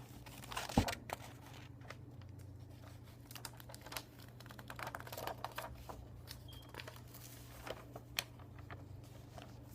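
Book pages being turned by hand, with irregular rustling, flicking and crinkling of paper. A louder knock about a second in and a sharp tap near the end stand out. A steady low hum runs underneath.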